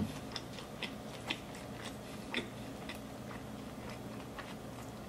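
A person chewing a mouthful of burger with the mouth closed: soft, irregular wet mouth clicks and smacks a few times a second apart, over a faint steady hum.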